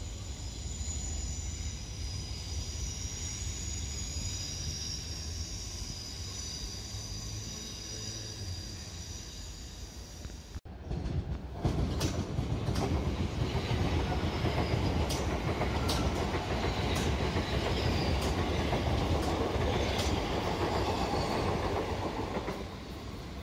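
Electric train running on the rails, with a steady high whine of several tones over the rumble. Then a Southeastern electric multiple unit passes the platform: a louder rail rumble with sharp wheel clicks about once a second over the rail joints, which eases off near the end.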